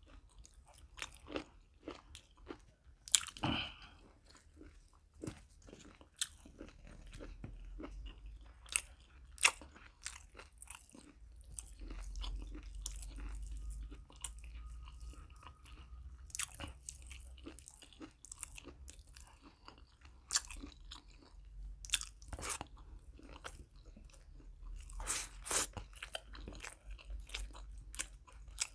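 A person chewing and biting chicken liver, gizzard and paratha, with irregular crunches and mouth clicks.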